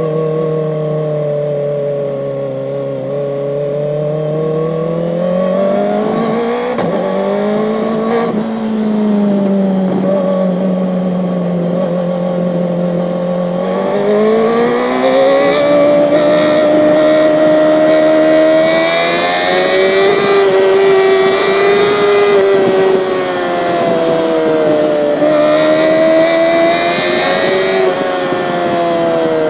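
Kawasaki ZX-4RR's 399 cc inline-four engine under way, its note rising and falling several times with the throttle.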